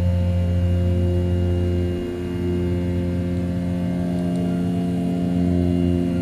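Desktop CNC mill's 500 W brushless spindle at 6000 rpm, with its end mill rough-cutting A7075 aluminium: a steady machining hum that dips briefly about two seconds in.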